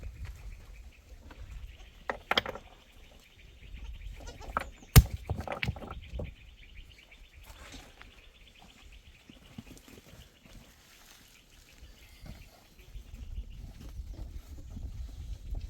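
Goats and sheep bleating now and then, with a few sharp knocks. The loudest knock comes about five seconds in, and a low rumble returns near the end.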